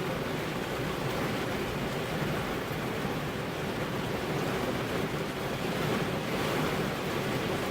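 Steady rain falling on a car's windows, an even hiss over a deep low rumble, swelling slightly about six seconds in.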